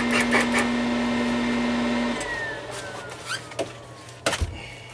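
Flux-core MIG welder arc buzzing and crackling over a steady hum. It cuts off about two seconds in, followed by a falling whine and a few sharp clicks.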